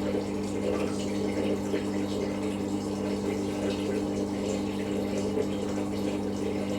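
Hoover DynamicNEXT washing machine's drain pump running with a steady hum, water gurgling through it as the drum empties after a rinse.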